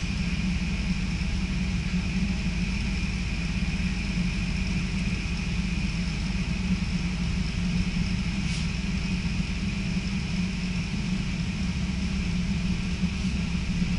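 Steady running noise of an NS passenger train, heard from inside the carriage: a low rumble of the wheels on the rails with a steady hiss above it.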